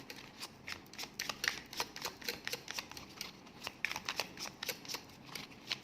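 Tarot cards being handled: a run of light, irregular clicks and taps of card stock, several a second.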